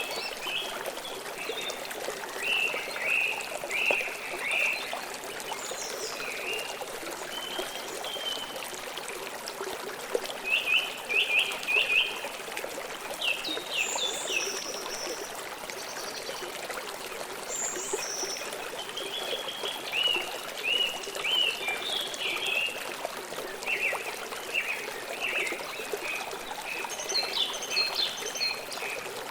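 A stream flowing steadily, with birds chirping and trilling over it in short bursts throughout.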